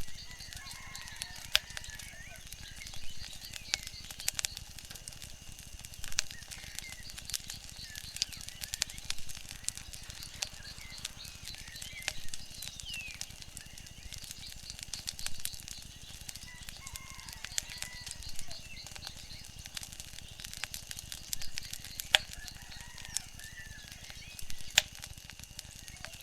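Wood fire crackling, with frequent sharp pops over a low steady rumble. Short bird chirps come now and then.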